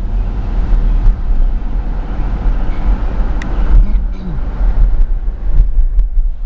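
Steady low rumble of a car driving slowly, heard from inside its cabin, with road and wind noise and a few faint clicks.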